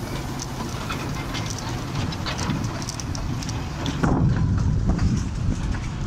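Narrow-gauge (2 ft) seaside railway train running along the track, heard from the carriage: a steady low rumble of wheels on rails with clicking and rattling, getting louder about four seconds in.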